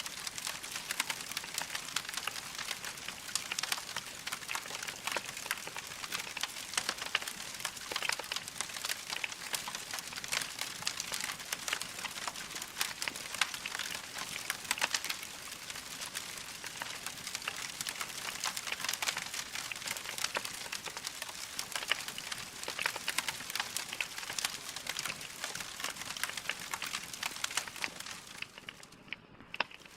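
Wood fire crackling in a fireplace: a dense, continuous stream of small pops and snaps over a soft hiss, dropping away briefly near the end.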